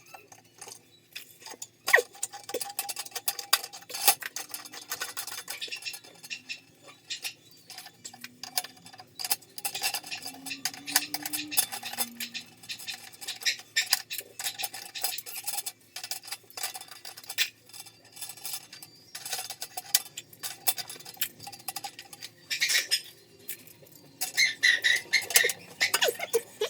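Irregular metallic clinks and taps of tools against metal pipe fittings, some in quick clusters and denser near the end, over a faint steady hum.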